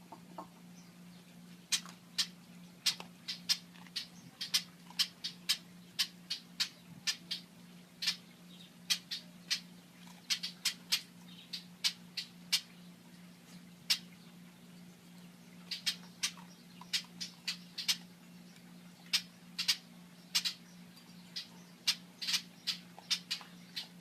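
Blackbirds mobbing, giving short, sharp alarm calls over and over, one to three a second with a few short pauses. A steady low hum runs underneath.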